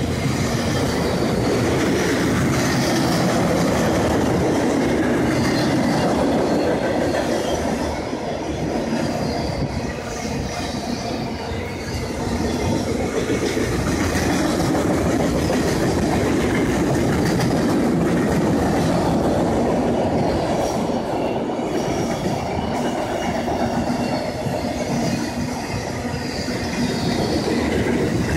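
Empty autorack cars of a freight train rolling past: a steady rumble and clatter of steel wheels on the rails, dipping slightly a couple of times as the cars go by.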